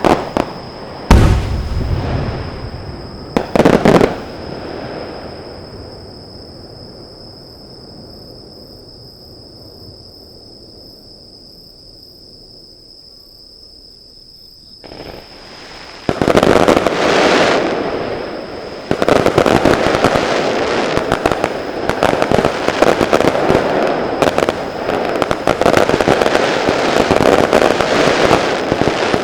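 Fireworks display: two loud aerial shell bursts about one and three and a half seconds in, each echoing away, then a lull of several seconds. From about sixteen seconds a dense, rapid barrage of bursts and crackling follows and continues.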